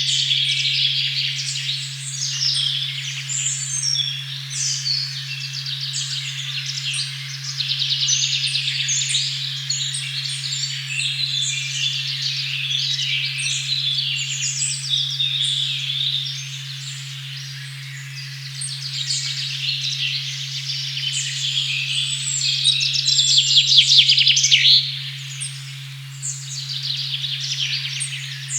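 A steady low 136.1 Hz tone sounds beneath a dense chorus of forest songbirds, many overlapping chirps and trills. A burst of fast trilling about 23 to 25 seconds in is the loudest part.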